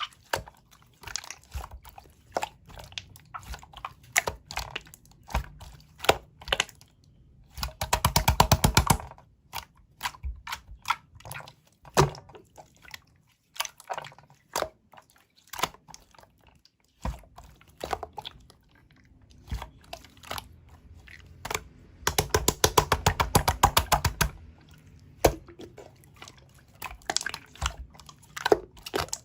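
Slime being squished and poked by hand, giving scattered sticky clicks and pops. Twice, about eight seconds in and again around twenty-two seconds, it breaks into a run of rapid popping clicks lasting two seconds or so.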